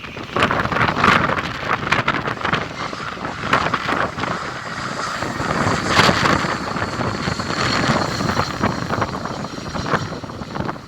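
Strong gusty wind buffeting the microphone, with rumbling and crackling blasts that rise and fall.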